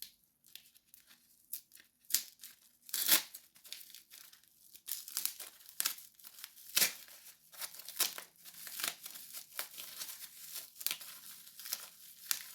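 Packaging crinkling and tearing as it is handled, with irregular small clicks and knocks.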